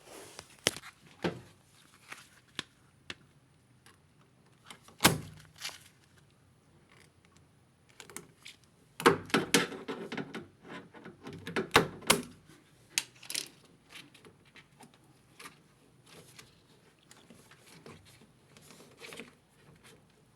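Scattered knocks, clicks and rattles of hard objects being handled, with one sharp knock about five seconds in and a busy run of quick clicks and clatter in the middle.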